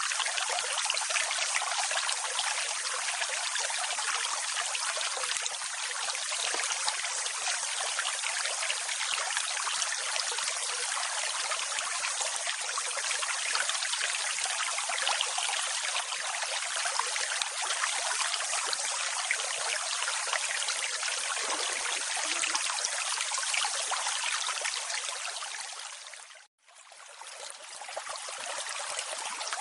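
Steady rushing and splashing of a waterfall and its stream. About three seconds before the end the sound dips away to nothing for a moment, then returns.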